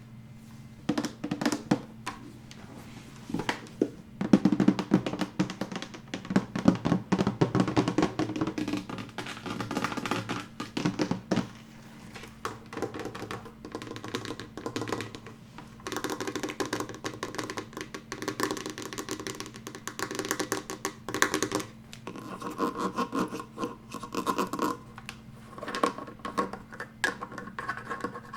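Fast, close-up tapping and scratching on assorted hard objects: dense runs of quick taps and scrapes, with a few short pauses.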